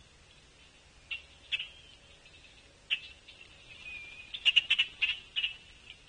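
Small birds calling at a feeder: a few short, sharp chirps, then a quick run of rapid clicky notes about four and a half seconds in.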